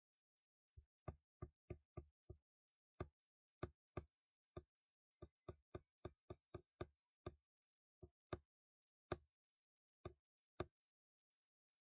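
A run of irregular, quiet taps on a hard surface, some in quick clusters, with short pauses between groups.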